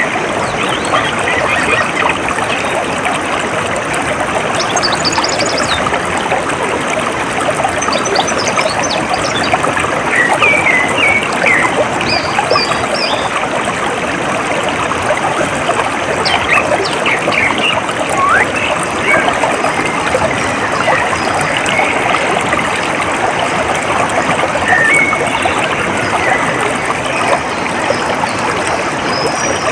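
Water trickling and running steadily, like a small stream, with scattered short bird chirps over it.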